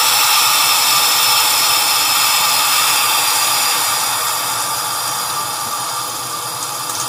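Tap water pouring steadily onto the lid of a pressure cooker standing in a steel sink, cooling it quickly to bring the pressure down; a steady rushing hiss that eases a little toward the end.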